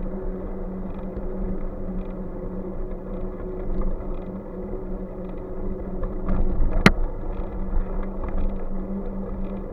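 Steady rumbling road noise of a bike on the move, with a constant low hum, and a single sharp click about seven seconds in.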